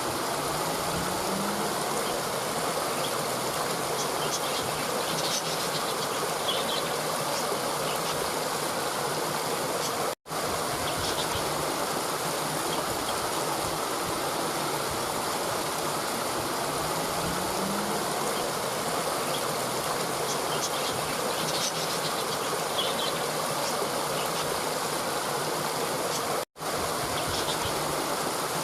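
Steady rushing of a stream, with faint high chirps in short clusters now and then. The sound cuts out completely for an instant twice.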